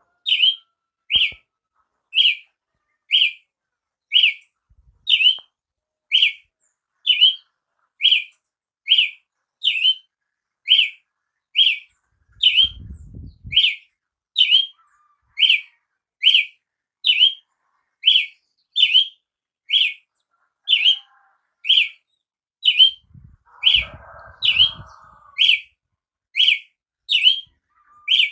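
Brazilian tanager (tiê-sangue) calling: a single short, sharp chip note repeated evenly about once a second.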